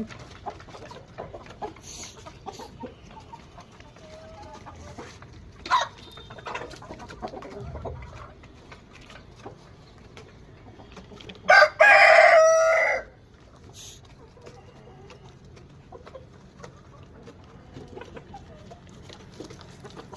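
A rooster crows once, loudly, about halfway through, a call of about a second and a half; short fainter clucks and calls from the chickens come and go around it.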